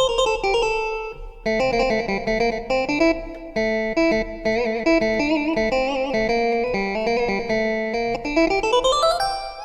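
Sampled electric bağlama, a plucked long-necked lute, playing from an SF2 soundfont preset. An opening note rings for about a second and a half, then comes a quick melodic line of plucked notes, and a fast rising run near the end.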